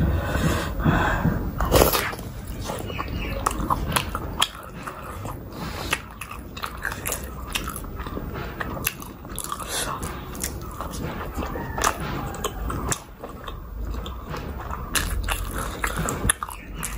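Close-miked biting and chewing of steamed chicken momo dumplings, many small irregular mouth clicks, with one louder bite about two seconds in.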